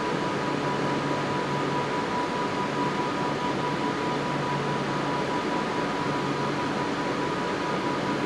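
Avanti West Coast Class 390 Pendolino electric train standing at the platform before departure, its onboard equipment and air conditioning humming steadily with a constant high-pitched whine.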